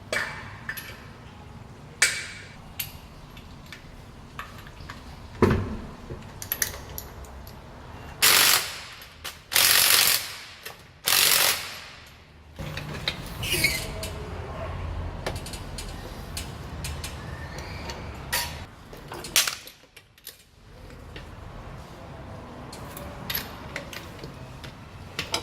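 Mechanical work sounds of hand tools on metal: scattered sharp clicks and knocks with some ratchet-like clicking, and three loud bursts of noise about a second each midway through.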